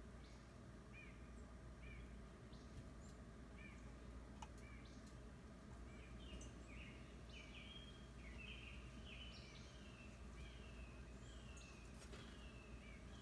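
Faint bird calls: short chirps about once a second, then from about six seconds in a quicker run of short falling notes, over a low steady hum.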